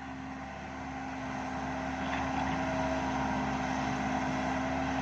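Heavy diesel engine of earthmoving machinery running, growing louder over the first two seconds and then holding steady with a constant hum.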